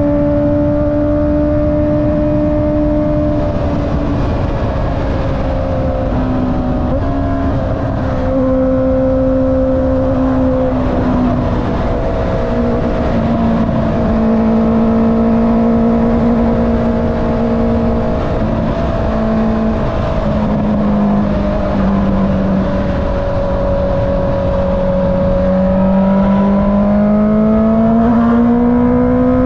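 Honda CB650R inline-four motorcycle engine with an Akrapovic exhaust, riding along. The engine note eases slowly lower through most of the stretch, then rises steadily as the bike accelerates near the end, over low wind rumble.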